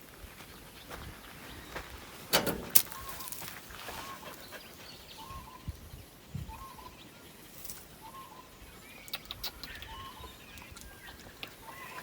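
A bird repeating a short call note every second or so, with a few higher chirps near the end. Two or three sharp knocks sound about two and a half seconds in.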